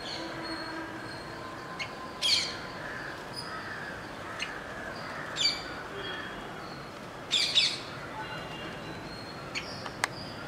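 Bird calls: three short, loud calls a few seconds apart, the last one a quick double. Fainter chirps come between them over a steady background noise.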